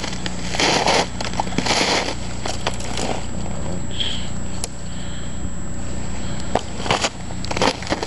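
Footsteps crunching on ice-glazed ground and storm debris: irregular crunches, bunched near the start and near the end, with a brief high chirp about four seconds in.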